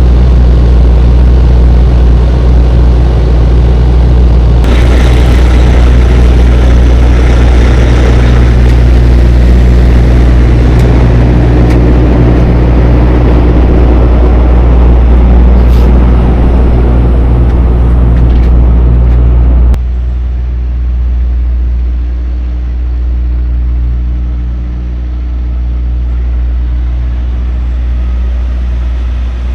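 Tractor-trailer's diesel engine and road noise, a loud steady drone. About twenty seconds in it drops to a quieter, lower hum as the hiss falls away.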